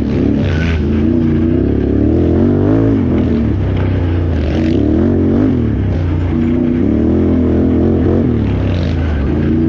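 Can-Am Renegade XXC 1000R ATV's V-twin engine revving up and down repeatedly as it is ridden hard off-road, its pitch rising and falling every second or two.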